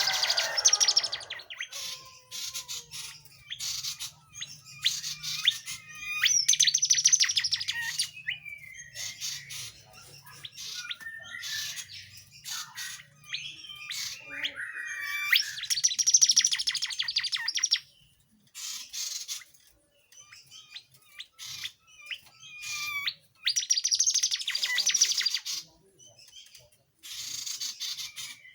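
A tledekan jati songbird singing busily. It repeats high, rapid trilled phrases of a second or two each, with short chirps and brief pauses between them.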